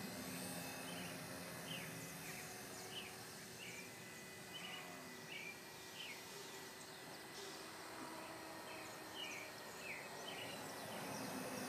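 A bird chirping repeatedly, short high notes that drop slightly in pitch, roughly one a second, over a faint steady outdoor hum.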